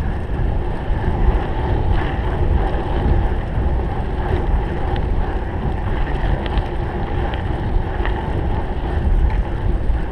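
Wind buffeting the microphone of a cyclocross bike moving at speed, a steady low rumble, with the bike's light clicks and rattles over rough ground.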